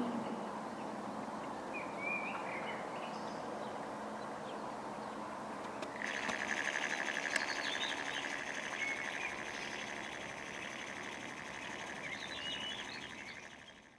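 Small birds chirping over a faint, fading rumble of a receding diesel locomotive; about six seconds in, a steady high-pitched buzzing tone starts and holds until the sound fades out at the end.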